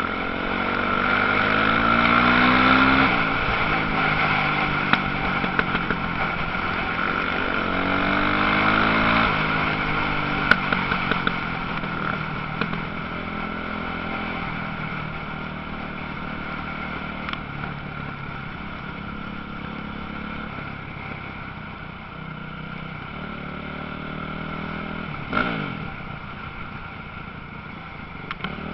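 Motocross motorcycles racing, their engines revving up and dropping off again and again as the bikes accelerate and shift. The engines are loudest near the start and fade off later, with a sharp knock about 25 seconds in.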